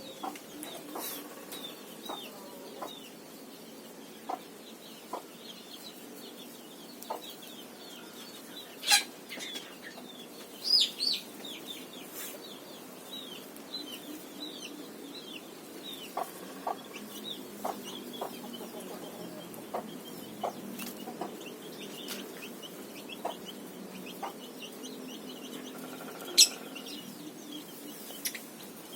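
Chickens clucking amid a steady chatter of many short, high chirps from small birds, with a few louder, sharp calls standing out about nine, eleven and twenty-six seconds in.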